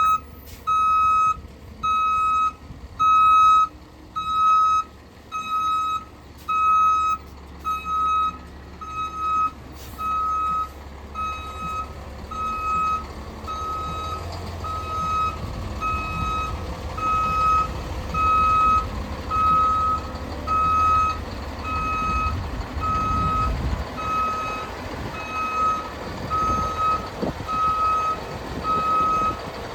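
Fire truck's reverse alarm beeping steadily, about once a second, over the low rumble of the truck's engine. The engine grows louder about halfway through as the truck backs in.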